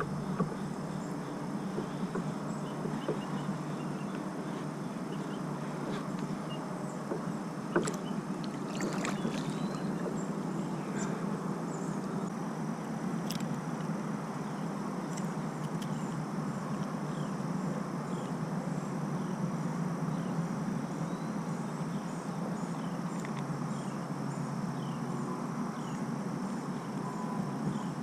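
Steady water and wind noise around a kayak on a lake, with a few sharp knocks about eight to nine seconds in and faint high chirps from birds or insects in the background.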